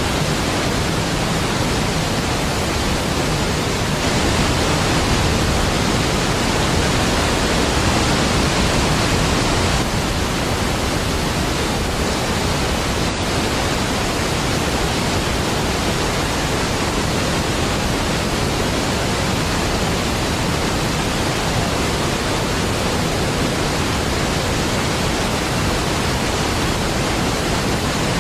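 Niagara Falls, a large waterfall, giving a steady, deep rush of falling water that swells slightly for a few seconds in the first third.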